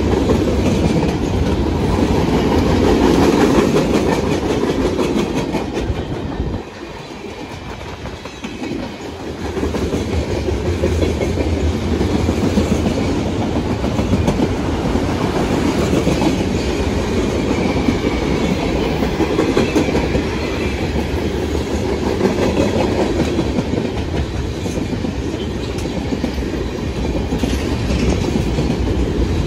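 Freight train cars rolling past at speed: a steady rumble with the clickety-clack of steel wheels over the rail joints. The sound eases briefly about seven seconds in.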